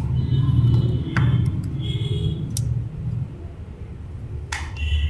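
Hands working on a smartphone being taken apart: a low rumble of handling noise with a few sharp clicks, spaced a second or more apart.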